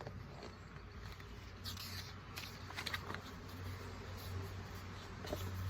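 Faint rustles and light clicks of paper, typical of the pages of a picture book being turned and handled, over a steady low hum.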